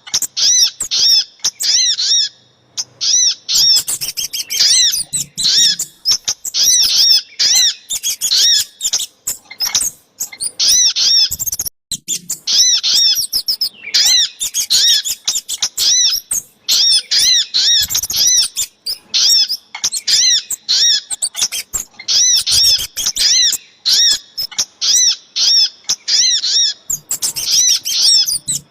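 Bird-trapping lure recording of sogok ontong and kemade calls: high, arching chirps repeated fast in bursts of several notes, with short breaks between the bursts.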